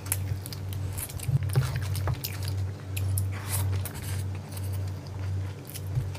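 Close-miked chewing and wet mouth sounds of a person eating chicken biryani and a chicken leg with his hand, with a pulsing low chewing sound and many short smacking clicks.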